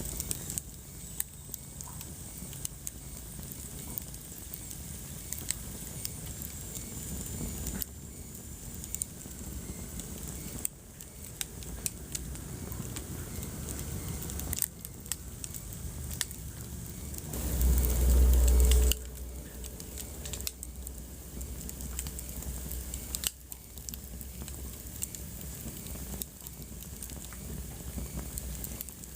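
Wood fire burning in a fireplace, crackling with frequent sharp pops over a steady hiss. A little past halfway, a loud low rumble lasts about a second and a half.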